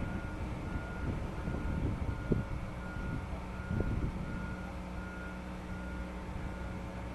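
Warning beeper of moving heavy transport equipment sounding a steady pulsed beep, about one and a half beeps a second, over a low machinery rumble with a couple of short knocks.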